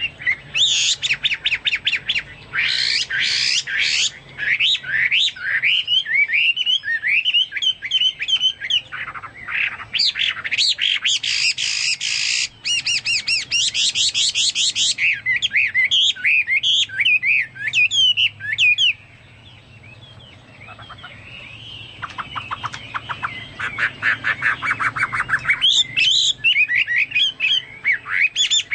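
Chinese hwamei singing a long, varied song of quick whistled phrases and rapid trills, in the full 'gacor' style likened to a cucak Papua or cucak mas. It drops back for a couple of seconds about two-thirds through, then carries on.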